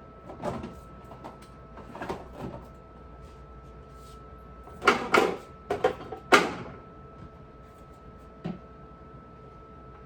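A series of household clunks and knocks, like doors, drawers or containers being handled and set down. The loudest burst of clatter comes about five to six and a half seconds in, and a faint steady high tone runs underneath.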